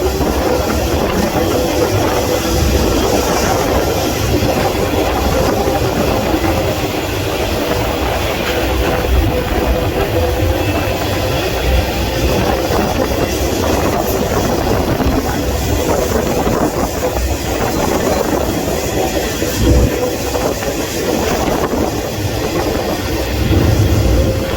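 Moving freight train heard from on board: a steady loud rumble and rattle, with a few brief louder jolts.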